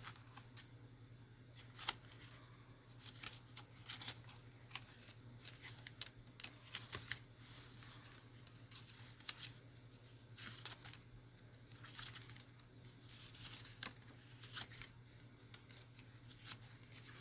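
Faint handling of paper journal pages: scattered light rustles and small clicks over a steady low hum.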